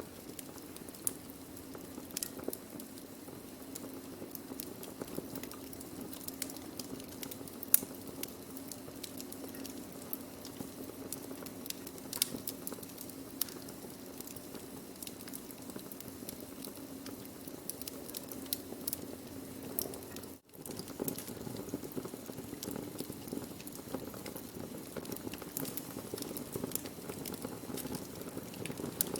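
Burning wood fire crackling: frequent irregular sharp pops and snaps over a steady low hiss, with one louder pop about eight seconds in. The sound drops out for an instant about two-thirds of the way through.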